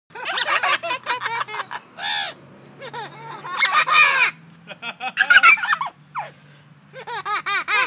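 A parrot imitating human laughter in several bouts of quick, rapid-fire 'ha-ha-ha' notes, with short pauses between bouts.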